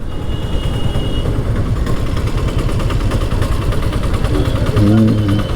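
Two-wheeler engine running amid city road traffic, a steady low rumble of engines and road noise. A thin high tone sounds for about a second near the start, and a short low hum rises above the traffic about four and a half seconds in.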